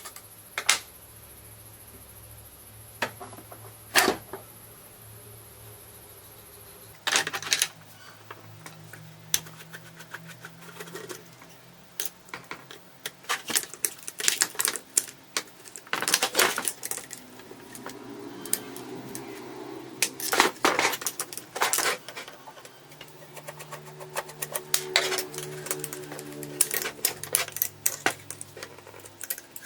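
Irregular sharp clicks and metallic clinks of hand tools and small metal parts being handled, coming thicker from about seven seconds in.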